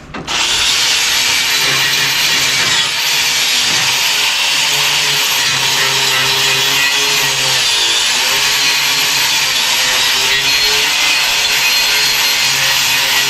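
Wire-feed MIG welder arc striking about half a second in and then running as one long, loud, steady hiss while a bead is laid.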